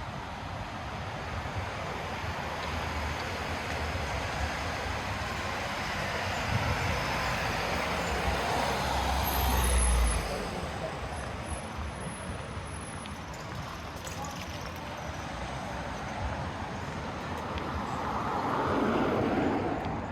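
Street traffic: vehicles passing at close range. The loudest, with a deep rumble, builds and passes about ten seconds in, and another swells and passes near the end.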